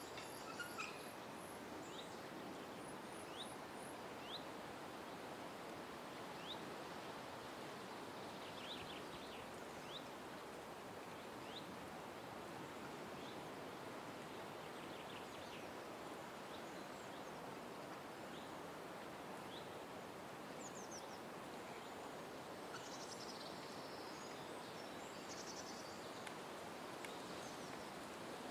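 Scattered bird calls, short chirps and quick whistled slides with a brief high trill at the start and a busier spell of calls near the end, over a steady background hiss of outdoor ambience.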